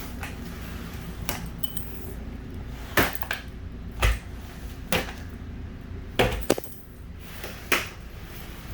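A series of about seven sharp knocks and clinks of hard objects, spread unevenly, over a steady low hum, as the floor is being mopped.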